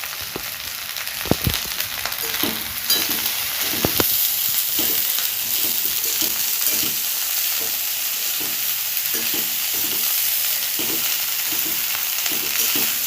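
Fried rice being stir-fried in a hot pan: steady sizzling, louder from about three seconds in, with a spatula knocking and scraping against the pan a few times a second and two sharper knocks in the first four seconds.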